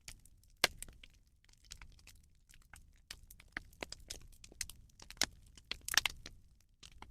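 Rubbish bonfire crackling: irregular sharp pops and snaps over a faint low rumble of the flames, the loudest about half a second in and again around five to six seconds in.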